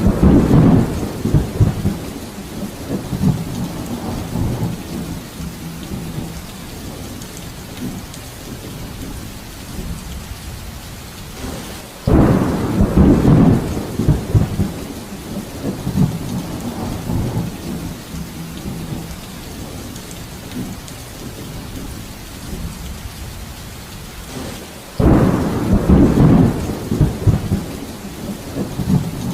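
Steady rain with rolls of thunder: three rumbles about twelve seconds apart, each starting suddenly and fading over several seconds.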